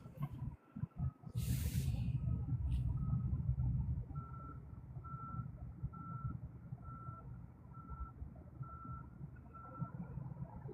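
A vehicle's reversing alarm beeping steadily, one single-pitched beep about every second, over a low rumble that is loudest in the first few seconds.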